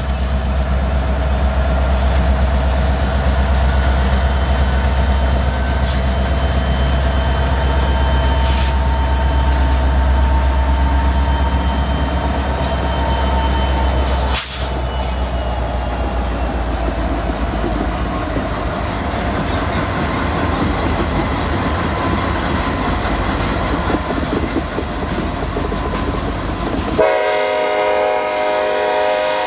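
Norfolk Southern diesel freight locomotives passing close by, a heavy engine rumble that drops off as the lead unit goes by about halfway through, then freight cars rolling past on the rails. A train horn sounds near the end.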